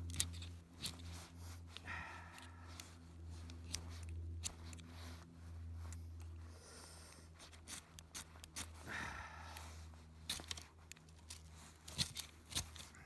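Ferrocerium fire-starter rod scraped again and again with its striker to throw sparks onto tinder: a run of short, sharp scrapes at an uneven pace.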